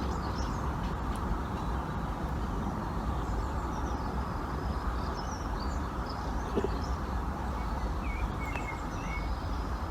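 Outdoor background: a steady low rumble of ambient noise with small birds chirping now and then.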